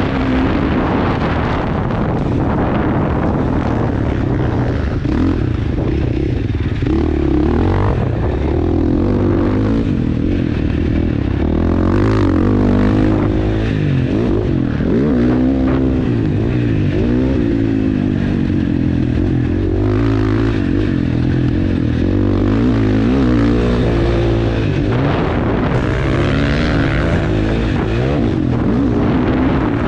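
KTM 450 four-stroke single-cylinder dirt bike engine ridden hard around a motocross track, revving up and dropping back again and again, its pitch rising and falling with the throttle and gear changes.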